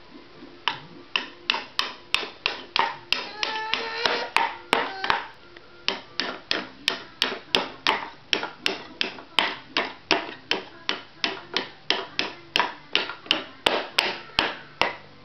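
A child striking with a hammer in a steady run of sharp knocks, about two to three blows a second, softer and irregular for a couple of seconds about a third of the way in.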